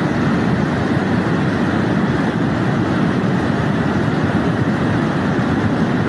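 A steady, loud rushing rumble of noise with no break and no distinct events.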